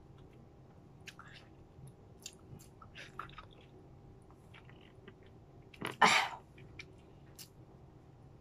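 Quiet wet chewing of grapefruit segments, with small scattered mouth clicks and one loud breathy burst about six seconds in.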